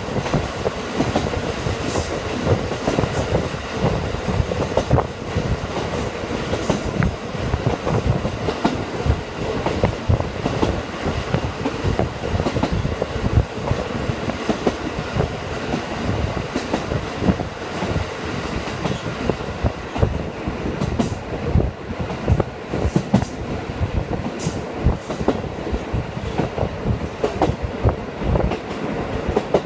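KiHa 40 diesel railcar running along the line, heard from inside the carriage. A steady rumble of wheels and engine is broken by frequent irregular clicks and knocks from the wheels over the track.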